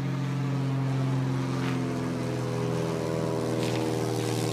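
A private plane's engine droning steadily as it flies past, its pitch shifting slightly partway through.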